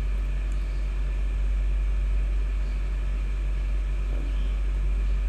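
Steady low rumble, even and unchanging, with no other clear sound over it.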